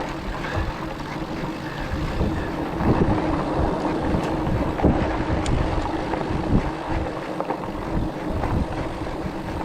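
Wind buffeting the microphone on a moving e-bike, with a faint steady whine from the bike's electric motor underneath.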